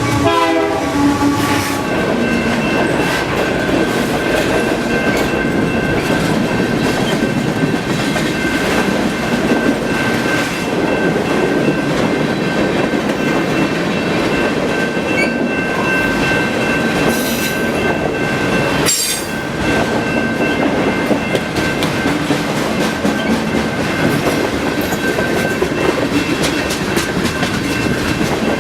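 Canadian Pacific freight train passing close by: a horn note drops in pitch as the locomotive goes past in the first second and a half, then the cars roll by with a steady rumble and clatter. A thin, high, steady ring runs through much of the passage.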